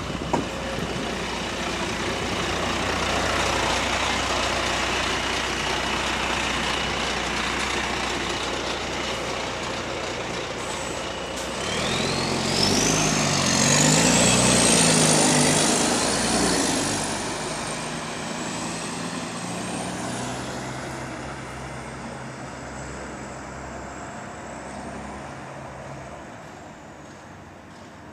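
Engine of a Wright-bodied Volvo double-decker bus with an exhaust leak, running steadily, then about twelve seconds in revving hard as it pulls away, with a high whine rising steeply over it. The sound then eases off and fades toward the end.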